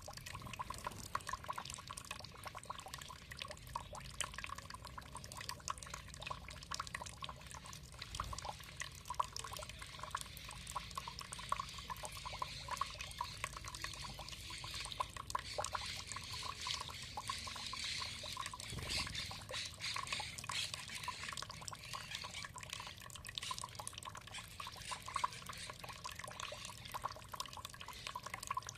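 Running water trickling and dripping, a steady patter of many small splashes.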